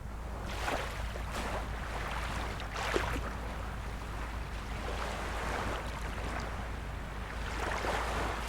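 Wind buffeting the microphone: a steady low rumble with hissing swells that come and go in gusts.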